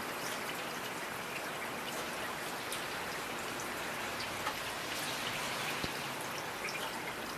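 Steady rain falling, with scattered sharper drop hits heard over an even hiss.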